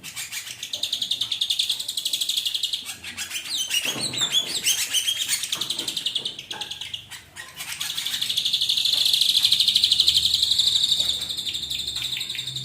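Ashy drongo singing: fast, buzzy trills high in pitch, with a run of varied gliding notes about four seconds in and a long, loud trill in the second half.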